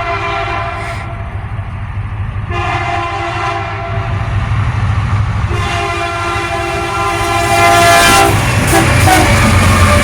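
Union Pacific freight locomotive's air horn sounding for a grade crossing: a long blast ends about a second in, then a short blast, then a long one, over the steady rumble of the diesel locomotive. Near the end the train reaches the crossing and the rumble and rail noise grow loudest.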